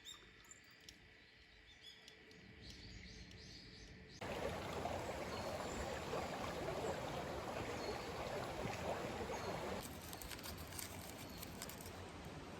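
Birds chirping over quiet outdoor ambience; about four seconds in, the sound cuts abruptly to a loud, steady rushing noise, which gives way near the end to a quieter hiss with scattered sharp crackles.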